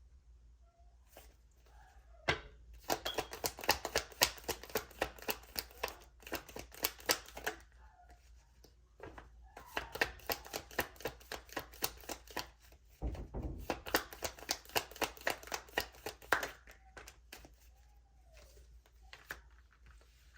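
A deck of tarot cards being shuffled by hand: two long spells of rapid card clicks with a short pause between them. A single sharp tap comes just before the first spell.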